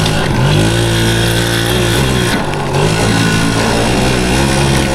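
Yamaha PW80's small two-stroke single-cylinder engine running under the rider, its note dipping and picking up again as the throttle is eased and reopened, about two seconds in.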